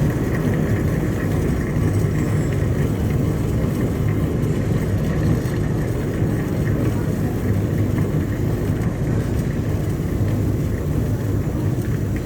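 Flake exhaust fan running steadily: a low, even rumble with rushing air and a faint steady whine above it.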